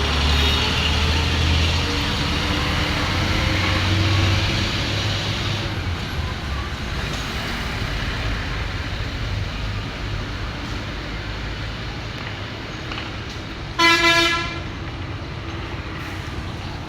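An engine running steadily with a low hum, and one short horn toot near the end.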